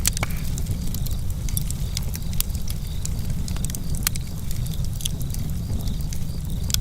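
Campfire crackling: many small pops and snaps over a steady low rumble, with a few sharper pops now and then.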